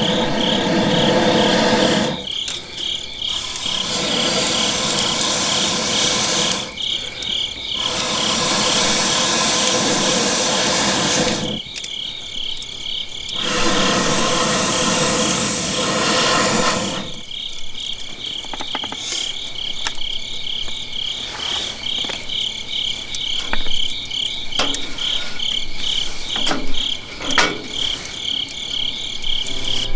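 Crickets trilling steadily in a fast pulsing chirp throughout. Over the first half, four loud rushing noise stretches of a few seconds each come and go; the second half is quieter, with scattered sharp clicks.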